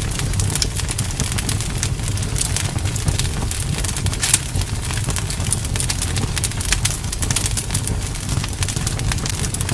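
Wood fire burning, crackling and popping constantly over a low, steady rumble, with one sharper pop about four seconds in.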